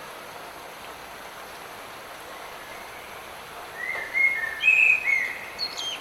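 Steady hiss of light rain, with a bird singing a loud phrase of whistled notes, some rising and some level, starting a little past halfway in.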